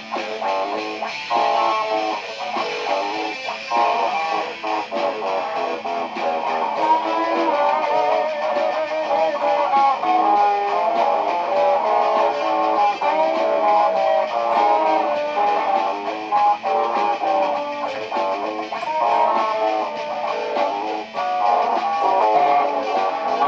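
Electric guitar music built from live loops, with several guitar lines sounding together without a break.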